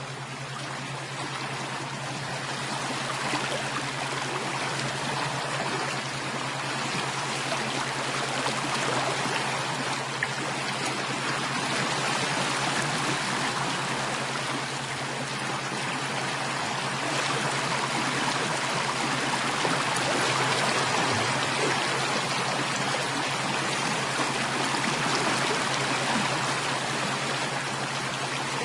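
Running water flowing steadily, like a stream, with a steady low hum underneath; it swells slightly over the first few seconds, then holds even.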